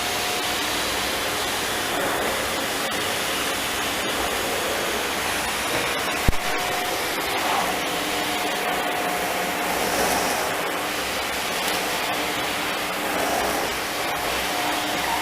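Philips vacuum cleaner running steadily, with a faint whine over its airflow noise. There is a single sharp click about six seconds in.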